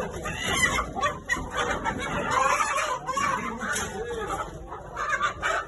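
A large flock of breeder chickens calling all at once, many overlapping voices.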